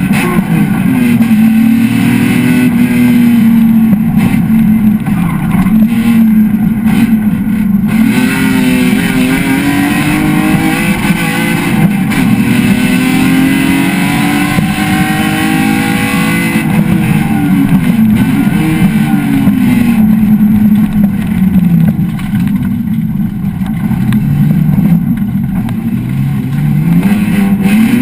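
BMW E36 Compact race car's engine heard from inside the cabin under hard driving, its pitch climbing and dropping repeatedly as it revs up, shifts and slows.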